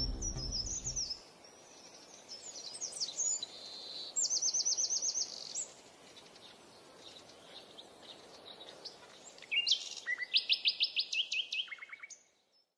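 Songbirds chirping and singing: quick high chirps, a fast trill of about ten notes a few seconds in, and a louder run of repeated notes near the end. The tail of a piece of music stops about a second in.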